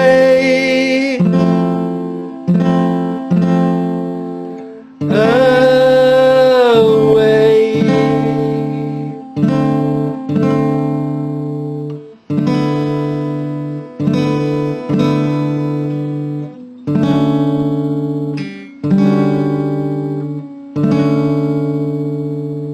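Acoustic guitar strumming slow chords, each left to ring and fade, with a long held wavering sung note near the start and another around five seconds in that bends down in pitch. A last chord about 21 seconds in rings out and fades.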